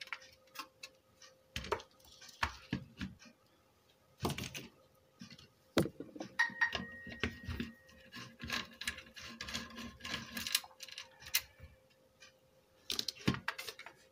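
Hand work on an opened car stereo: small metal parts and tools clicking, tapping and rattling against the unit's chassis in irregular bursts, over a faint steady hum.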